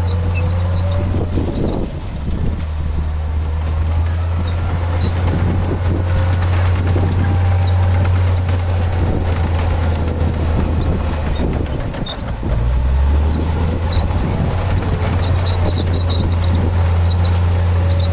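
Heavy diesel engine of a Shantui crawler bulldozer running steadily at working revs. The engine note dips briefly about two seconds in, then drops lower for a moment around twelve seconds in before coming back up.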